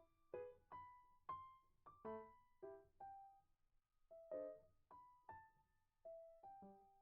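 Faint, soft piano-style keyboard music: single notes and small chords struck one after another, each left to ring and fade.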